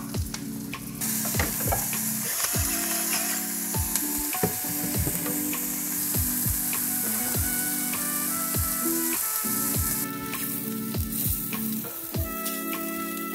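Oyster mushroom pieces sizzling as they fry in butter in a nonstick pan, stirred and pushed around with a silicone spatula. The sizzle comes up about a second in and eases off near the end.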